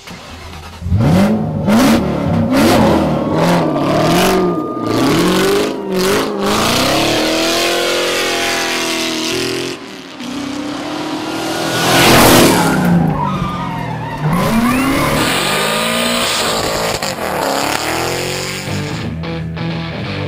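Engines revving up and down hard while tyres screech and skid, as in drifting. A loud tyre screech peaks about two-thirds of the way through.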